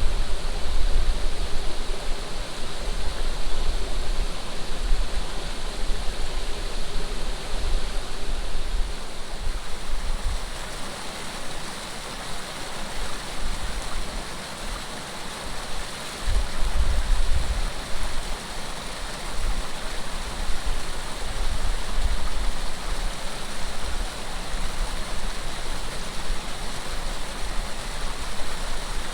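Running water flowing steadily, with gusts of wind buffeting the microphone as low rumbles, strongest at the start and again about halfway through.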